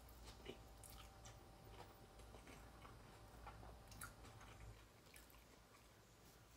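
Faint chewing of a mouthful of spicy fire chicken noodles, with small wet mouth clicks scattered throughout.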